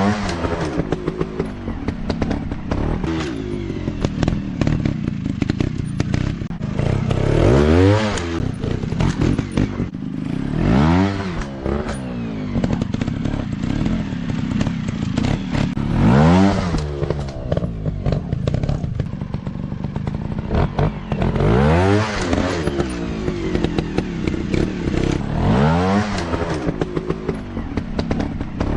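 Off-road dirt bike engines running and revving, the pitch climbing and dropping back in repeated bursts about every four to five seconds.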